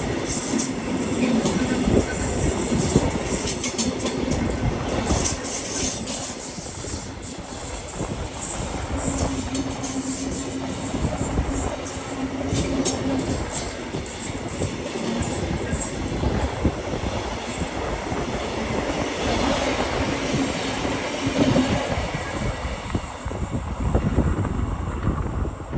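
A train passing on the line, its wheels running steadily over the rails with clicks and a few brief high-pitched squeals, the sound dying away near the end.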